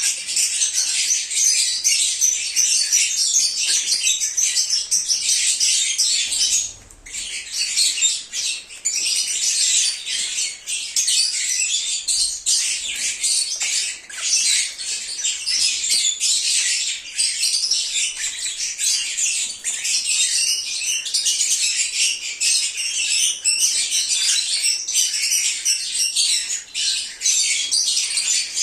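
A flock of lovebirds chattering, with dense high-pitched chirps and squawks overlapping continuously, and a short lull about seven seconds in.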